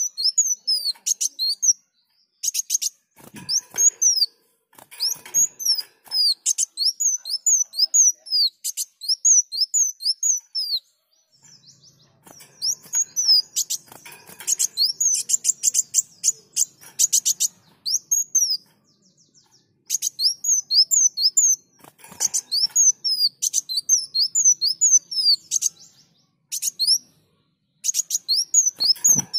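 Kolibri wulung sunbird singing in full song: fast runs of high, sharp downslurred chirps in bursts of a few seconds, with short pauses between them.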